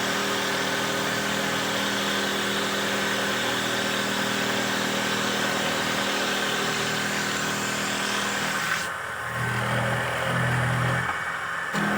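Handmade wooden dowel-making machine running: a steady motor hum under a dense rushing noise. About nine seconds in, the rushing noise drops away for about three seconds, leaving a lower hum, then comes back.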